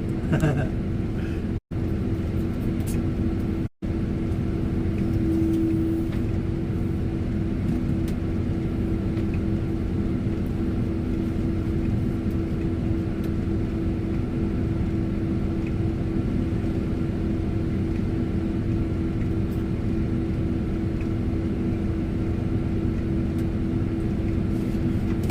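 Tractor engine running steadily at a constant speed, a low rumble with a steady hum. The sound drops out briefly twice in the first few seconds.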